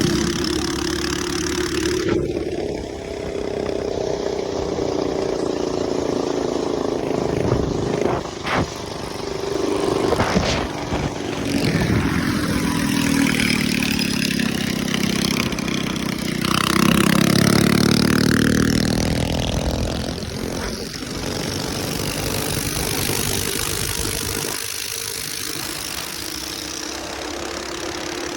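Motovox mini bike's small four-stroke engine running. In the middle stretch it revs and its pitch rises and falls several times, then it settles back to a steady idle near the end.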